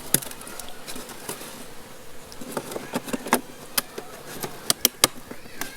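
Honeybees buzzing around an opened hive, with scattered sharp clicks and taps from the hive box being handled and plugged shut. The clicks come more often in the second half.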